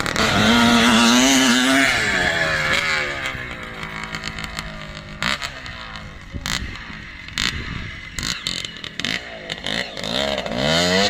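1973 CZ 250 motocross bike's single-cylinder two-stroke engine revving: the note climbs briefly, then falls away over several seconds with sharp crackles at low revs, and climbs again near the end.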